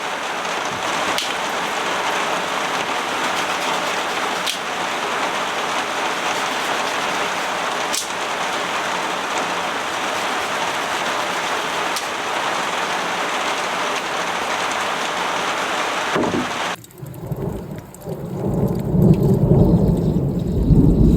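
Heavy rain falling steadily, a dense even hiss. About 17 seconds in the rain sound cuts off abruptly and a deep rolling rumble of thunder builds, loud by the end.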